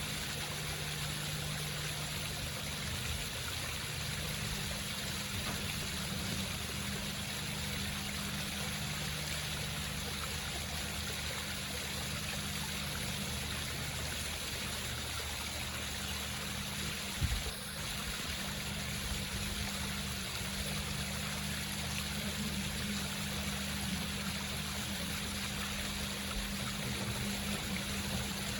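Water from a home waterfall trickling and splashing steadily over rocks, with a low steady hum beneath it. A brief low thump about seventeen seconds in.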